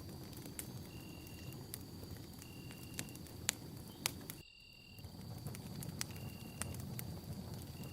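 Campfire burning with a steady low rumble and scattered sharp crackles and pops, the loudest about three and a half and four seconds in. Behind it runs a steady high insect trill, with a short chirp repeating about every second and a half, as of crickets. The whole sound dips briefly about halfway through.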